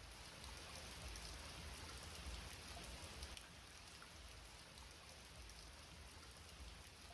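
Rain falling steadily and faintly, with scattered ticks of individual drops.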